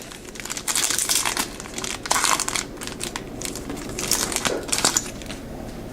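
A trading card pack's foil wrapper being torn open and crinkled by hand, in several crackly bursts about a second in, around two seconds in, and near four and a half seconds.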